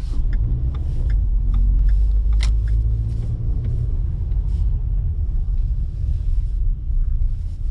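Low engine and road rumble of a car heard from inside the cabin as it drives slowly into a fuel station forecourt, with scattered light ticks over it.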